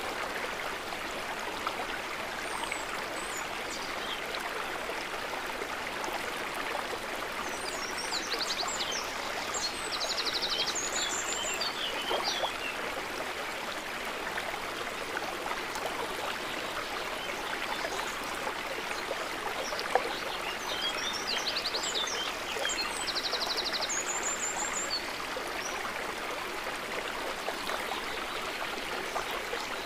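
Water trickling and gurgling steadily at the edge of a calm lake. High bird chirps with a fast trill come in twice, about 8 and 20 seconds in.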